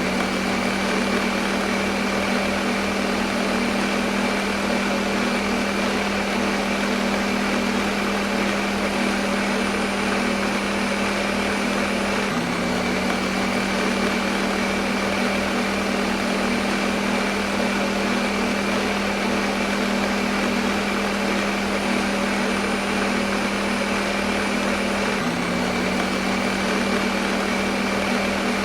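Electric blender motor running steadily with a low hum and an even whir above it. The hum dips briefly about twelve seconds in and again near twenty-five seconds, then picks straight back up.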